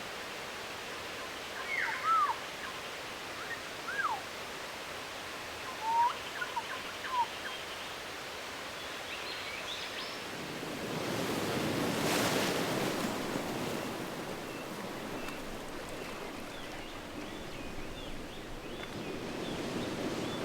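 Shore ambience with a steady soft hiss: a few short whistled bird calls with gliding pitch in the first seven seconds, then a wave washing in, swelling about ten seconds in and fading away.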